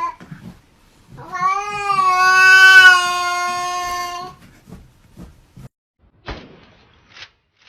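A cat giving one long, drawn-out meow of about three seconds, followed near the end by two short knocks.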